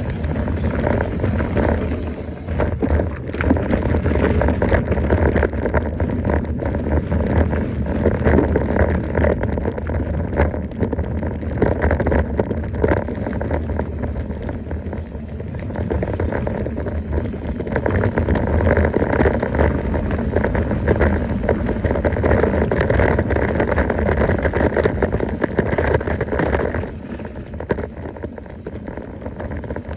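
Mountain bike being ridden over a rough dirt trail: tyres rumbling over the ground while the bike rattles and clatters constantly. It eases off somewhat near the end.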